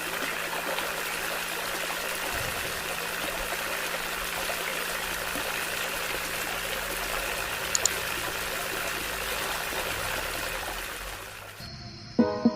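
Water running in a steady stream, as from the small pump of a homemade water pump tractor, with a faint steady hum beneath it. About a second before the end it gives way to soft music.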